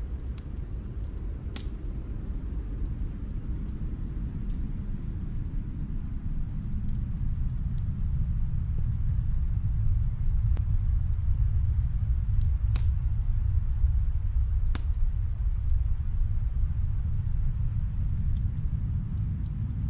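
Fireplace crackling with a few sharp pops over a deep rumble of storm wind. The rumble swells to its loudest in the middle and eases near the end.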